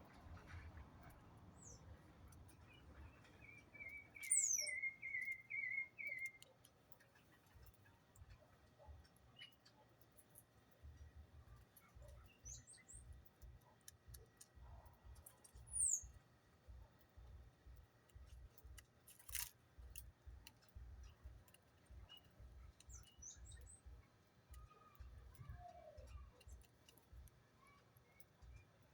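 Small birds chirping faintly, with a short, rapid trill of repeated chirps about four seconds in and scattered short, high chirps after it. A single sharp click comes about two-thirds of the way through, over faint low thumps.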